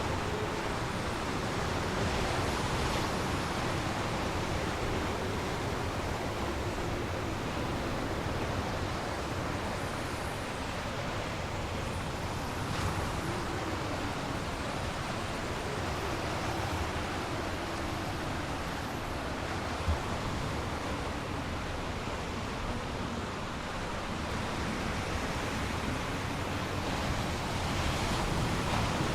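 Strong wind and stormy lake waves in a steady rushing noise, with one brief knock about twenty seconds in.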